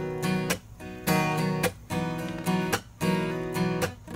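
Acoustic guitar strumming the intro chords of a country song, the chords broken off by short pauses about once a second.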